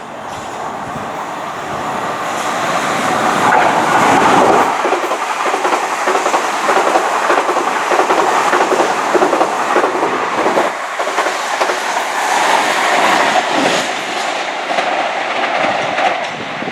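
Passenger train passing close by on the main line, its wheels clattering over the rail joints and points. It grows louder over the first few seconds, holds steady, then eases slightly near the end.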